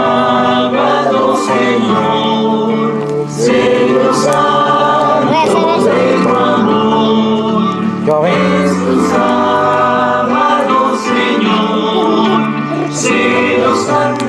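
Choral music: a choir singing a religious song over held instrumental chords.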